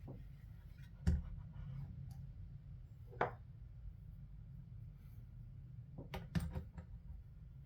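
Tools and small parts clicking and tapping as a Xiegu X6200 radio transceiver is taken apart: a sharp knock about a second in, a short ringing clink about three seconds in, and a quick run of clicks near the end, over a low steady hum.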